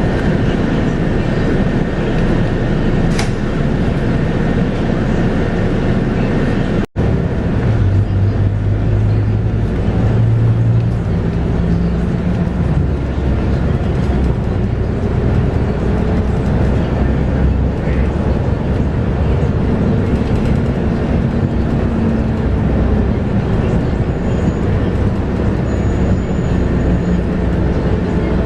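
Interior of a Scania K230UB bus under way: its five-cylinder Scania DC9 diesel and ZF Ecomat six-speed automatic run over steady road and tyre noise. After a brief dropout about seven seconds in, the engine note steps up in pitch as the bus pulls through the gears.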